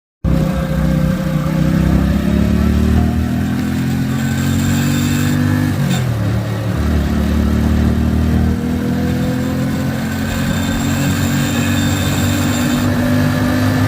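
Keeway V-Cruise 125 motorcycle engine running. Its pitch climbs slowly for about six seconds, drops sharply, then climbs slowly again.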